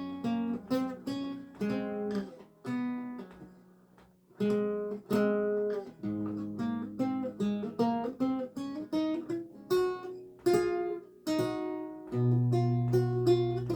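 Solo lute music: slow single plucked notes and chords, each ringing and fading, with a short pause a few seconds in and a low bass note joining near the end.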